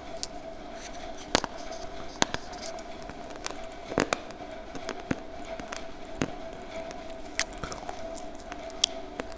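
Close-miked crunching of homemade slate-pencil (clay) lollipop pieces being bitten and chewed: sharp, irregular crunches, about one a second, over a steady hum.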